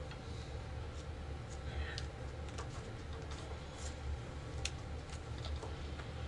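Playing cards being laid down on a table: scattered light clicks and taps, the sharpest a little past the middle, over a low steady hum.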